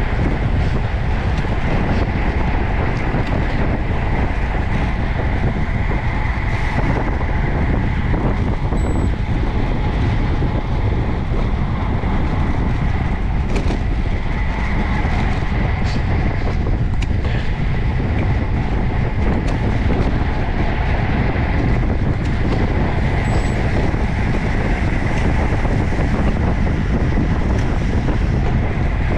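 Steady rush of wind on the microphone of a camera riding on a moving road bicycle, mixed with tyre noise on the road.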